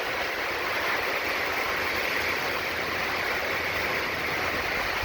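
Heavy hurricane rain driven by strong wind: a steady, loud rushing hiss of rain and water, with wind buffeting underneath.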